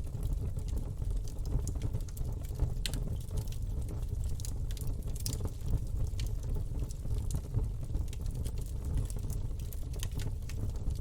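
Campfire burning: a steady low rush of flame with irregular sharp crackles and pops from the wood.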